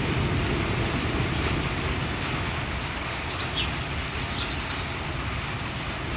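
Steady rain falling in a thunderstorm, with a low rumble underneath and a few faint bird chirps.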